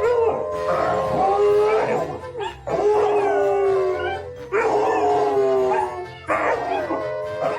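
A dog howling: four long howls in a row, each held for about two seconds with short breaks between.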